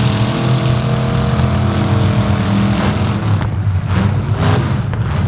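Loud truck engine noise: a steady drone that turns rougher and less even about three seconds in.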